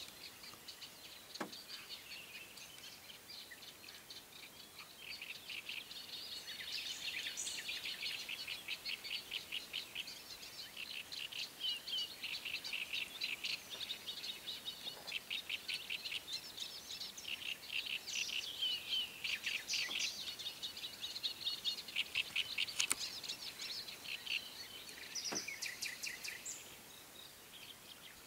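Songbirds singing in rapid chattering runs of high notes, dense and overlapping, building up about six seconds in and dropping away near the end.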